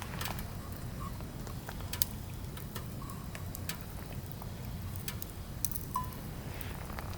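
Firewood burning, crackling with sharp irregular pops over a steady low rumble, with two brief high squeaks, one about a second in and one near the end.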